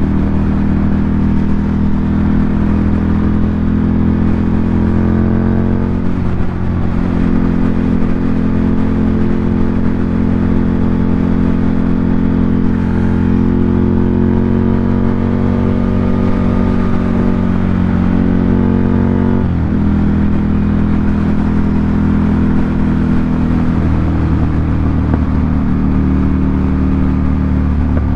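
2018 Ducati Monster 797's air-cooled L-twin engine running through an SC Project aftermarket exhaust under way. The engine note climbs slowly and drops sharply twice, about six seconds in and again near twenty seconds, as at upshifts.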